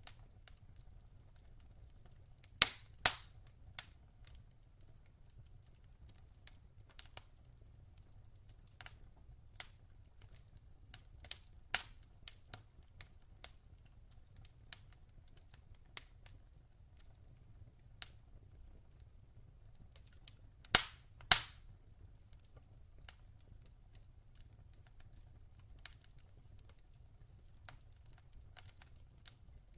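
Log fire crackling: irregular sharp pops and snaps of burning wood, with loud double pops about 3 seconds in, near the middle and about two-thirds through, over a faint low rumble.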